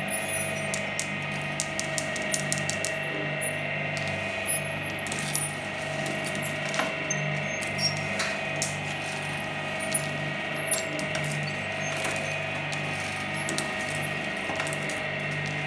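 Shredder running with a steady motor hum, with many irregular sharp cracks and clicks of hard lollipops being crushed in its blades.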